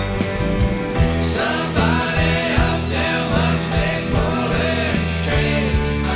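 A song: a voice sings from about a second in, over a band with guitar and a steady beat.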